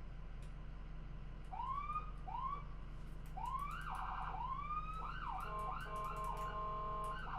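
Electronic car alarm going off from about a second and a half in, cycling through repeated rising whoops, a fast warbling trill and steady held tones. A low steady hum runs underneath.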